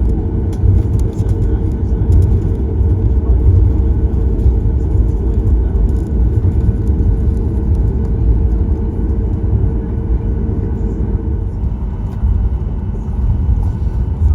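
Cabin noise of a Boeing 737 MAX 8 taxiing after landing: a steady low rumble from the CFM LEAP-1B engines at idle, with a steady hum in it that stops about eleven seconds in.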